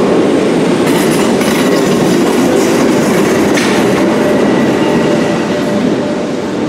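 Merseyrail electric multiple unit pulling out of an underground platform, its running noise echoing off the station walls and easing slightly near the end as the last car disappears into the tunnel.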